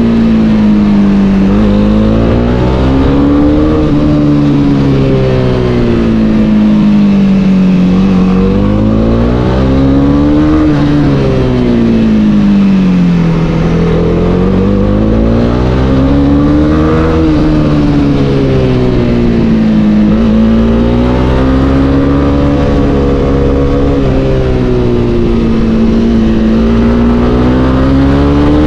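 Honda CB300R's single-cylinder engine under way, its note rising and falling again and again as the rider opens and closes the throttle.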